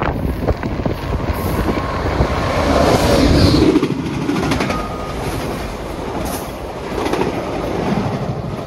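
VIA Rail passenger train passing at speed: wheel-on-rail noise and clickety-clack of the cars going by close. It builds to its loudest about three seconds in and falls away near the end as the last car recedes.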